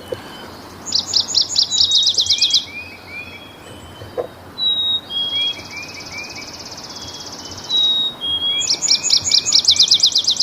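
Yellow-rumped warbler singing: a quick run of high notes about a second in and again near the end, with a fainter trill and scattered chirps in between.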